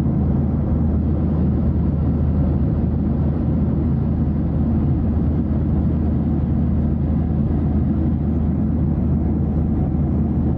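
A steady, loud low rumble that cuts in abruptly and holds even, with no clear rhythm or change.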